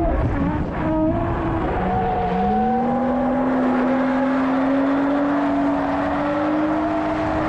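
BMW E36 drift car's engine running under load. Its note drops about two seconds in, then climbs slowly and steadily, over a steady rushing noise.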